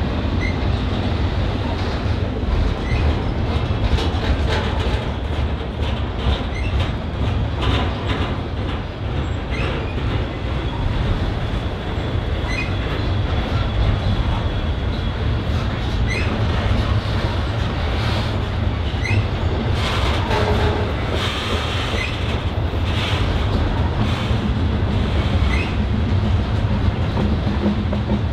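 Norfolk Southern freight train rolling past close by: a steady loud rumble of cars and wheels with repeated clicks over the rail joints, and a faint thin wheel squeal through the middle.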